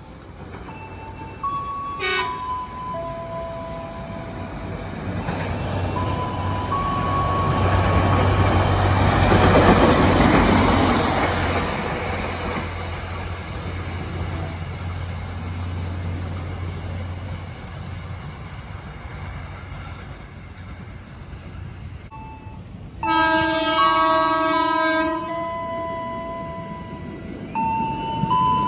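A KAI diesel track-inspection railcar passes by, its engine rumble and wheel noise swelling to a peak about ten seconds in and then fading. Later, an ex-JR 205-series electric commuter train sounds its horn for about two seconds as it approaches. Quiet melody notes play underneath.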